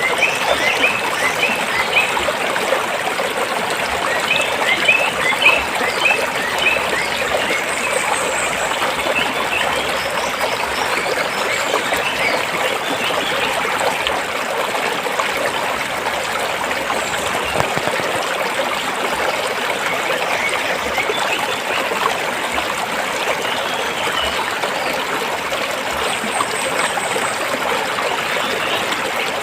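A rocky stream flowing and trickling steadily, with gurgling and bubbling over the stones that is busiest in the first few seconds.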